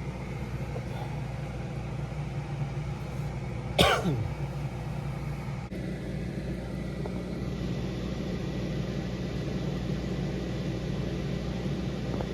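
Steady running noise of the small fan in a homemade esky ice air conditioner, blowing air out through its pipes. About four seconds in, a short loud sound drops sharply in pitch.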